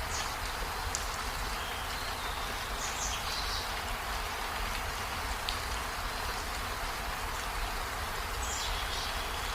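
Steady rain falling, an even hiss, with a few short high chirps about three seconds in and again near the end.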